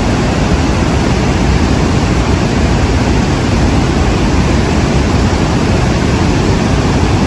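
Ruacana Falls in full flow after its gates were opened: large falling water making a loud, steady rushing noise with a heavy low rumble.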